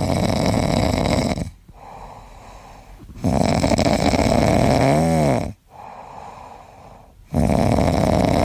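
A pet snoring: three loud snores roughly three and a half seconds apart, with quieter breaths in between.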